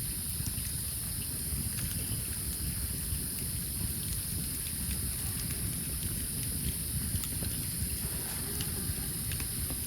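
Wood campfire burning, with scattered small pops and crackles over a steady low rumble.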